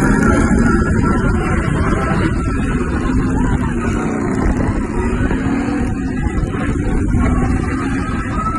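Motorbike roller coaster train running along its track with a loud, steady rumble.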